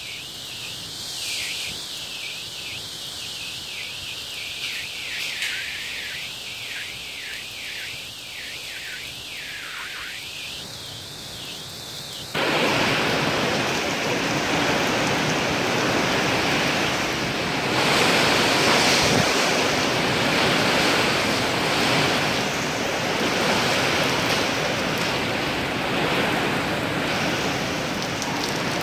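Heavy rain pouring down in a windy storm, a steady hiss that suddenly becomes much louder and fuller about twelve seconds in.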